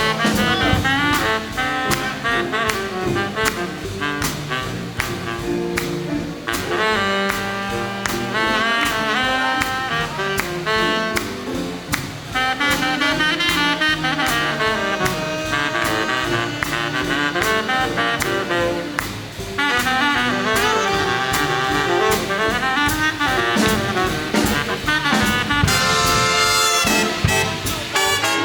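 Live big band swing instrumental break: a baritone saxophone solo over the rhythm section, with brass backing and drums keeping a steady beat.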